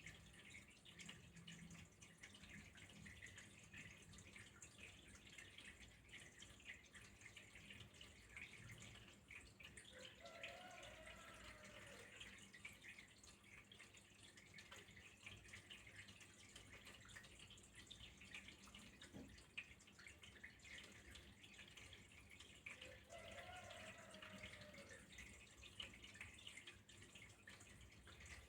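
Faint, steady trickle of flowing water with fine dripping and splashing detail. Twice, about ten seconds in and again near the end, a faint tone rises and falls over about two seconds.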